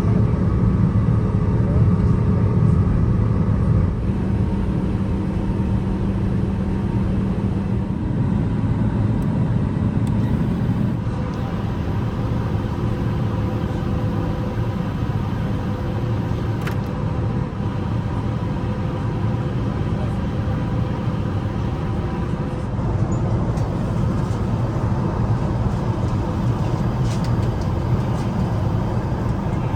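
Airbus A380 cabin noise: a steady low rumble from the jet engines with several steady engine tones over it. The level and tones shift a few times, dropping about 4 and 11 seconds in and rising again a little past halfway.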